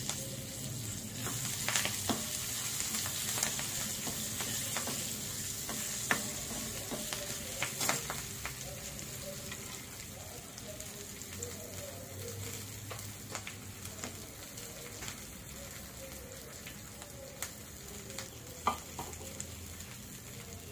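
A tempering of curry leaves, garlic, chillies and cashews sizzling in hot oil in a small kadai while a steel spoon stirs it, with sharp clicks now and then. The sizzle eases a little about halfway through.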